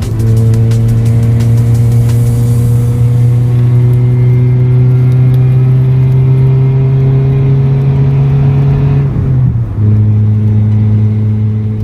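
Car engine pulling under load, its pitch climbing slowly for about nine seconds, then dropping sharply and settling at a steady lower pitch.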